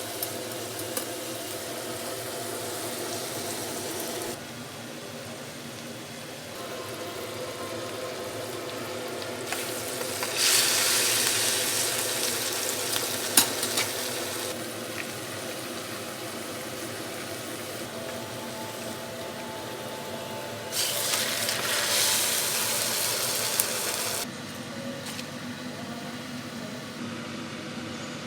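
Food frying in hot oil in a pan, sizzling steadily with some stirring, in several cut sections; the sizzle is louder in two stretches of a few seconds each.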